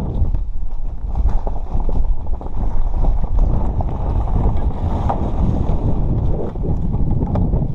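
Strong wind buffeting the microphone: a heavy, gusting low rumble, with faint scattered ticks.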